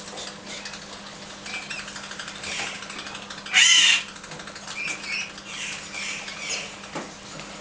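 A bird gives one loud, harsh call about halfway through, with fainter short chirps before and after it.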